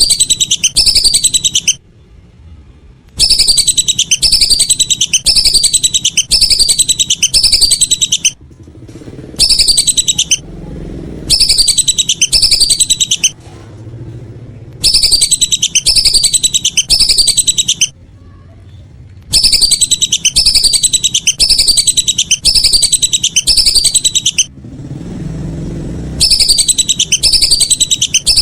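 Whistling duck (belibis) calls: loud, high whistled notes that fall in pitch, one about every second, coming in runs of one to five with short pauses between. This is typical of a call recording used as a lure to draw the ducks in.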